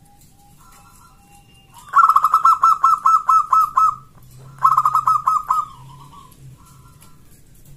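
Zebra dove (local perkutut) cooing: two loud runs of quick, evenly repeated coo notes, the first about two seconds long and the second, about a second after it, shorter. Softer bird calls sound before, between and after the runs.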